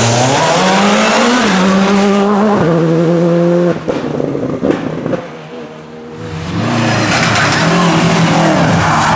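World Rally Car engine driven hard, revs climbing and held high for the first few seconds. The driver then lifts off with a few sharp cracks, and the engine drops away briefly before revving up strongly again about six and a half seconds in.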